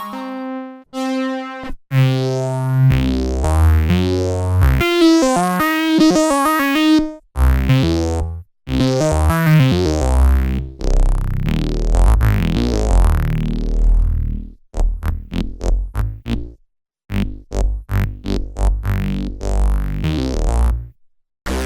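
Dreadbox Artemis synthesizer playing chords and bass notes, each note starting bright and quickly darkening. About two thirds of the way through, it changes to short, clipped notes in a rhythm, with a few brief pauses.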